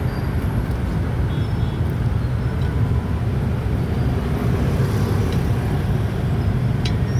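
Steady rumble of a motorbike on the move, engine and road noise running evenly without a change.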